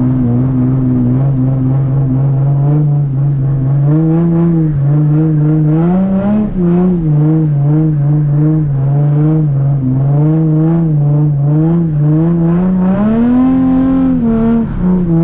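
Nissan 350Z's V6 engine running under load, heard from inside the cabin. The revs climb about four seconds in, ease off, and climb again near the end before dropping, as the car slides sideways on the slippery wet street.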